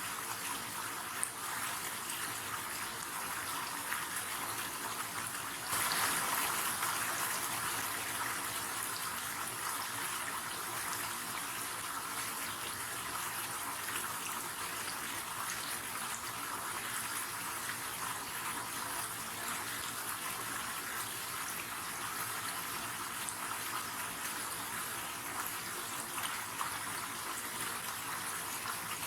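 River water running steadily over rocks, a continuous rushing with small splashes, briefly surging louder about six seconds in.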